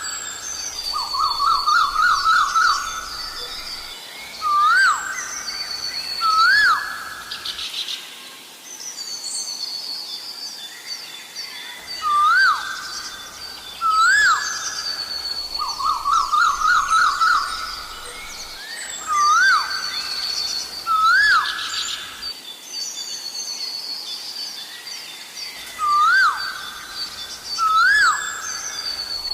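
Asian koel calling: loud rising two-part "ko-el" calls, usually given in pairs, alternating with fast runs of short rising notes, the pattern coming round every six or seven seconds. Smaller birds chirp higher and fainter behind it.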